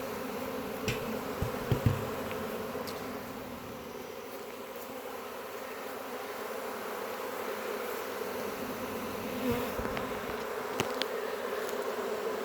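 A disturbed honey bee swarm: the steady hum of many bees flying in the air after being knocked off their limb, with a few faint knocks.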